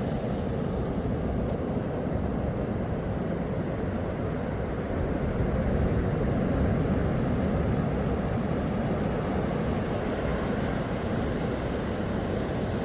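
Steady low rumble of sea wind and surf at a beach, swelling a little about halfway through.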